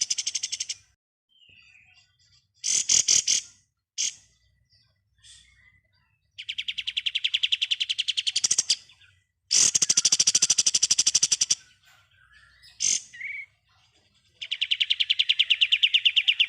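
Kapas tembak singing in its 'ngebren' style: four long, very rapid rattling trills of about two seconds each, with a few short notes between them.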